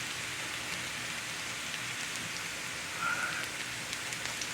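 Sliced potatoes and onions frying in oil in a cast iron skillet: a steady sizzle with small crackles.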